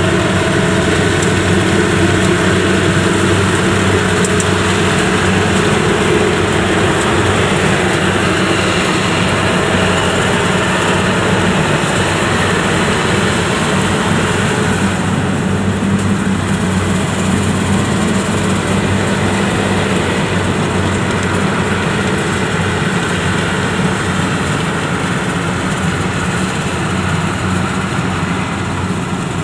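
Yanmar YH85 rice combine harvester's diesel engine running steadily under load as the machine works its way through deep mud.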